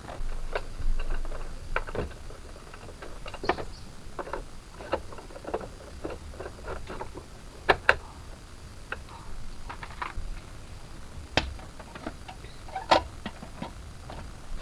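Irregular light clicks and knocks, with a few sharper taps, like small metal parts and hand tools being handled.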